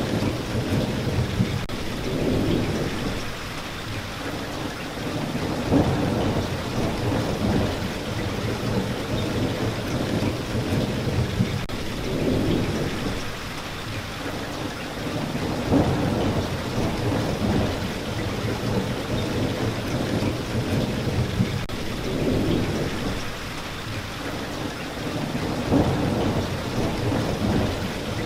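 Steady rain falling, with a low rumble that swells and fades every few seconds.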